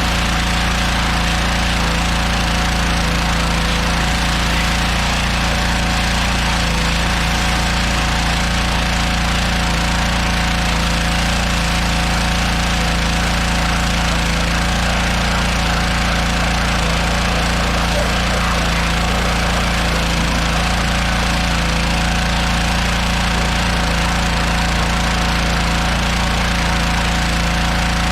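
Gas-engine pressure washer running steadily at full throttle, with a constant hiss of spray, while an engine bay is washed.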